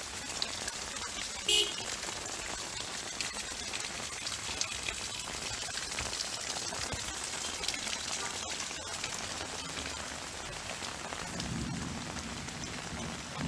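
Heavy rain falling steadily on surfaces, a dense even hiss. A brief short high-pitched sound cuts through about one and a half seconds in, and a low rumble builds up near the end.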